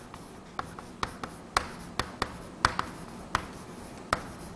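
Writing by hand: a string of short, irregular taps and scratches of a pen or marker stroking out words.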